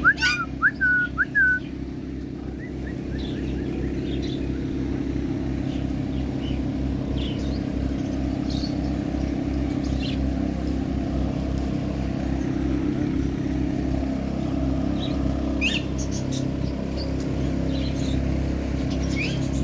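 Aviary birds calling: a loud rising whistle and four short whistled notes in quick succession at the start, then scattered short chirps. A steady low mechanical hum runs underneath.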